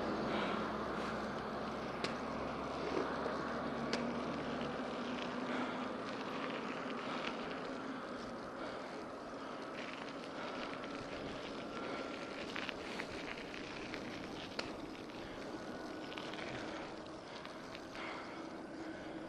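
A fire truck's engine fading as it moves away, dying out about five seconds in, then steady wind and road noise from the moving bicycle with a few faint clicks.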